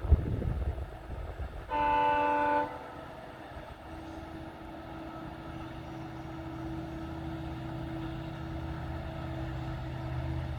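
Train horn blown once for about a second, a chord of several tones, followed by the low rumble and steady hum of an approaching train, slowly growing louder. A brief thump comes just before the horn, right at the start.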